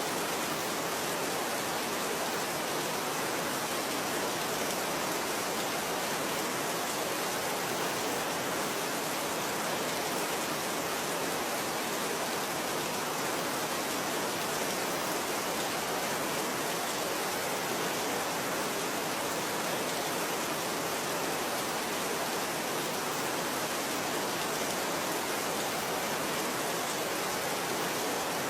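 Steady rainfall: an even, unbroken hiss of rain with no separate drops or thunder standing out.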